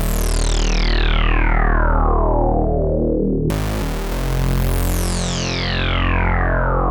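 Sequential Fourm four-voice analog polyphonic synthesizer playing its 'Sawyer Vibez' factory preset, dry with no effects: sustained chords that start bright and darken as the filter sweeps down. A fresh chord strikes about halfway through and sweeps down the same way.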